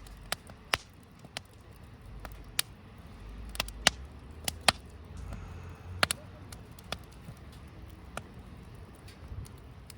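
Wood fire crackling in a fire pit, with irregular sharp pops and snaps over a low rumble.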